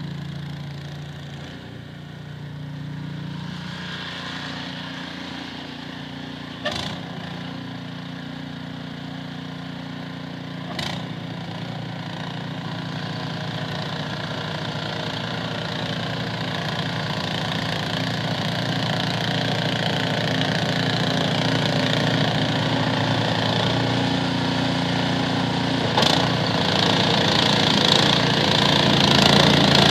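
Snowblower's small gasoline engine running steadily, slowly growing louder, with a few sharp knocks along the way.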